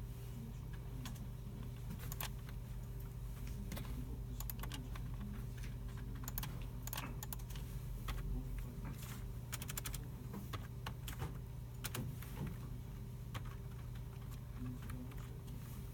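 Computer keyboards clicking in irregular runs of keystrokes, with scattered mouse clicks, over the steady low hum of room machinery and computers in a library computer room.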